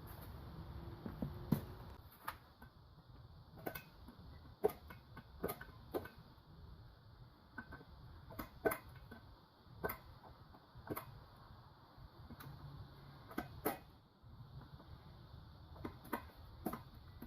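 Sharp clicks and taps of valve-train parts being handled, about one a second at irregular intervals, as the valve springs and keepers are taken off a Toyota 1ZZ cylinder head by pressing the retainers down with a socket and extension.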